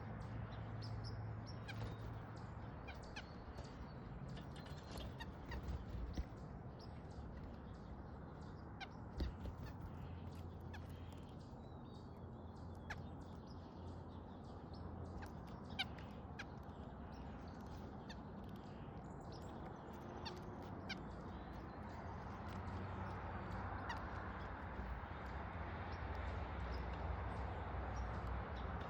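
Backyard birds at a feeder: scattered short chirps and calls, with a few sharper ticks, over steady outdoor background noise and a low hum.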